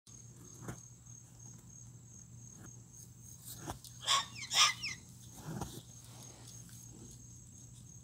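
Two short, loud bird calls about half a second apart, a little past the middle, from one of the pet birds (toucans and a cockatoo). Under them a steady, pulsing high insect trill runs throughout.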